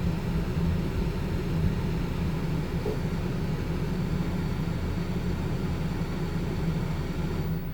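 Coleman Mach 13.5k BTU rooftop air conditioner running with a steady low hum and whoosh of air, its compressor not yet on; it is noisy.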